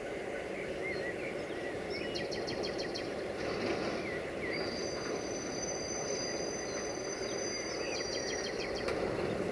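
Distant freight train of loaded hopper wagons rolling slowly through a rail yard, a steady low rumble, with birds chirping and a high thin whine held for a few seconds midway.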